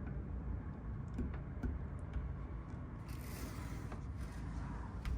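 Faint rubbing and a few light clicks as the bathroom door's magnetic catch is handled, over a low steady hum.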